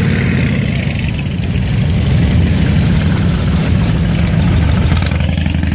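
Motorcycle engine idling, a steady low running sound.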